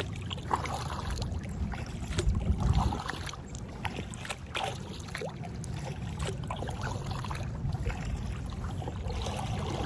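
Kayak being paddled: paddle strokes dipping and splashing in the lake water, with drips. A steady low rumble runs underneath.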